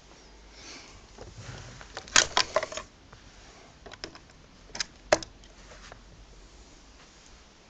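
Handling noise from a Hoover Junior vacuum cleaner that is switched off: a quick run of sharp clicks and knocks about two seconds in, then a few single clicks a couple of seconds later.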